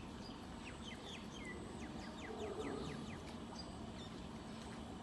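Birds calling outdoors: a quick series of short, high chirps, each falling in pitch, several a second, fading out after about three seconds.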